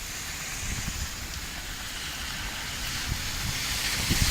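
Wind buffeting the microphone over a steady rushing hiss, with an irregular low rumble that grows louder near the end.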